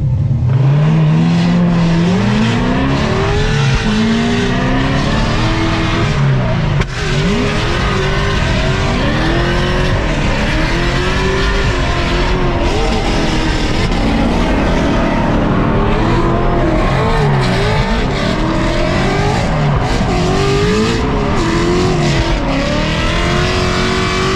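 C6 Corvette Z06's supercharged LS7 V8 drifting: the revs climb steeply right at the start, then rise and fall over and over as the throttle is worked through the slide. Tyres squeal throughout.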